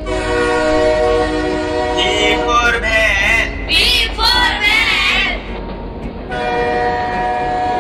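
Cartoon steam-train sound effect: a steady, many-toned train horn held over a low rumble from the running train. From about two to five seconds in, a high, wobbling voice sounds over it.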